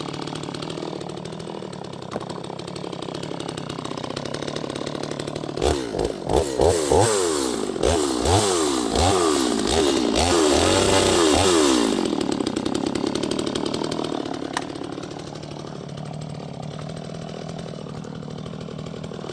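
Neotec NS846 45.4cc two-stroke chainsaw, new out of the box, idling, then revved in a quick series of throttle blips for about six seconds before dropping back to idle.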